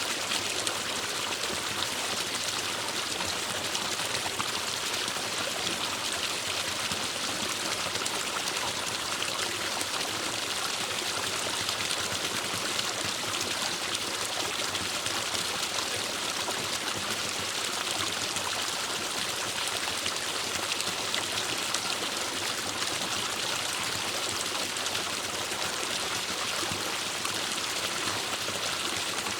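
A forest stream running over rocks, a steady rushing and trickling of water with no change in level.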